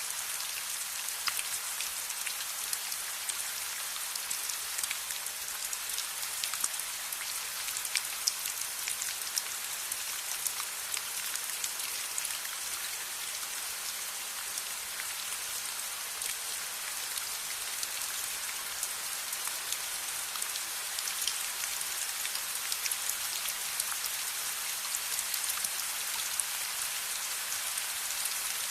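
Steady rain falling, with many scattered sharp ticks of individual drops.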